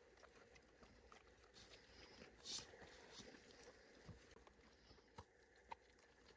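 Near silence, broken by faint scattered clicks and knocks and one brief soft rustle about two and a half seconds in.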